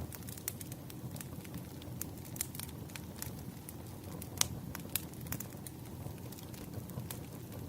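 Burning firewood crackling: irregular sharp pops over a low steady rumble, with one louder pop about four seconds in.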